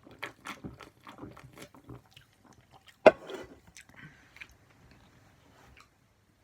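Someone chewing and crunching food close to the microphone: a run of irregular sharp crunches, with one louder crack about three seconds in, dying away before the end.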